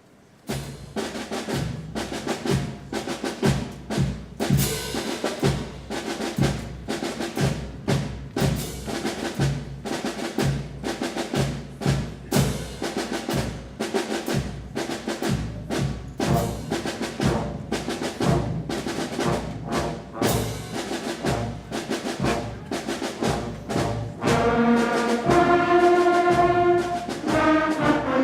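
A 5th and 6th grade school concert band playing, opening with a steady drum and percussion beat over low notes; about 24 seconds in the brass come in with held chords and the band gets louder.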